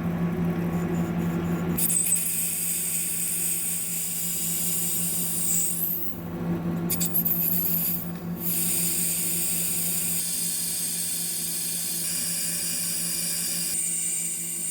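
Lathe turning a hardened steel bulldozer pin with a chipped ceramic insert, cutting off the induction-hardened surface layer: a steady hum with a high cutting whine that drops out briefly twice midway.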